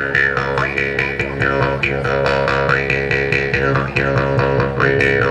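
Palm-wood jaw harp played with rapid, even twangs over a steady buzzing drone, its upper tone swelling and sweeping as the mouth shape changes, imitating frogs calling in rain-soaked fields.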